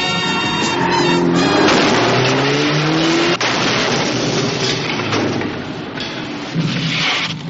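Film car-chase soundtrack: a car engine revs up in a rising pitch that cuts off abruptly about three and a half seconds in, followed by rushing tyre and road noise, with music score underneath.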